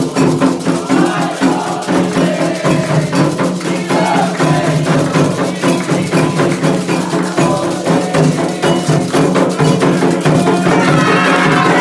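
Candomblé ritual percussion: atabaque hand drums and an agogô bell playing a fast, steady rhythm.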